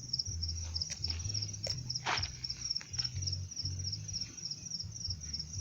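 Crickets chirping in a rapid, even pulse, over a low rumble, with one short sound about two seconds in.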